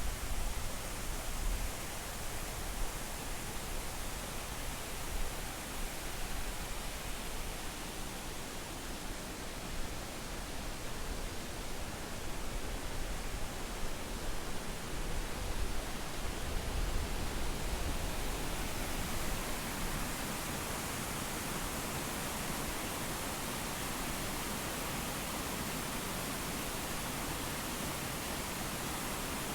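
Continuous rushing of the Triberg waterfall, a steady, even noise. An uneven low rumble underneath settles to a steady level about two-thirds of the way through.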